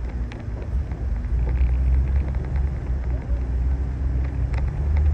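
Steady low rumble of a car engine running, with a faint steady hum above it.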